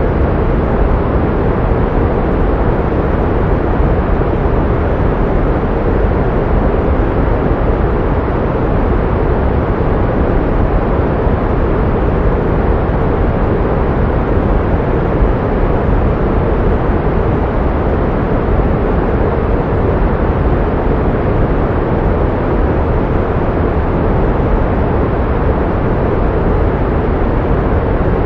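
Steady pink noise: an even, unbroken rush, strongest in the bass and fading toward the treble.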